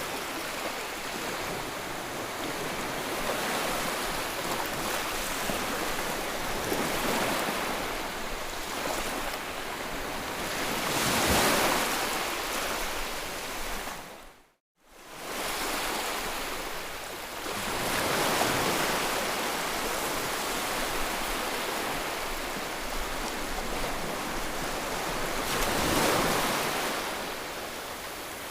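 White-noise track for soothing a baby: a steady hiss that swells and fades like surf, about every seven seconds. Halfway through it dips sharply to silence for a moment, then comes back.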